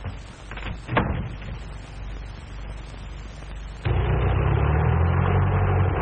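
A couple of knocks about a second in over film-soundtrack hiss, then a loud, low rumble cuts in suddenly near the end, the sound of a train running.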